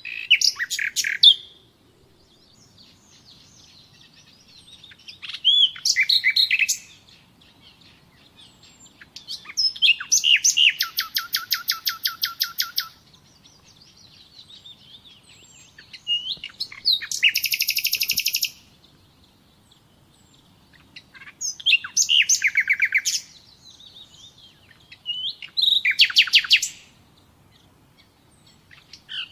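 A songbird singing short song phrases, six of them about four to five seconds apart. Each phrase has quick chirps and a fast, even trill, with quiet gaps between.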